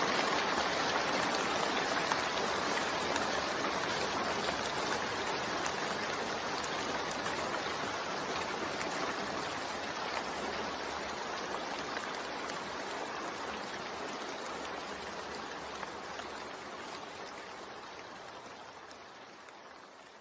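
Steady rain, a dense even hiss of falling water with no separate drops standing out, slowly fading out over the whole stretch until it is faint near the end.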